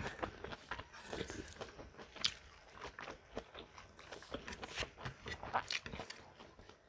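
A person biting and chewing crunchy food close to the microphone: irregular crisp crunches and clicks, some louder bites standing out.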